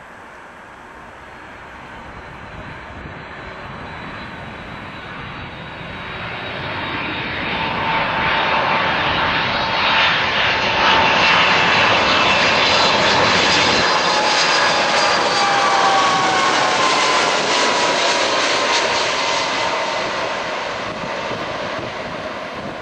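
Airbus A310-304 jet airliner with General Electric CF6-80C2 turbofans passing by. Its engine roar swells over several seconds, holds loud through the middle, then fades, with a whine that drops in pitch as it goes past.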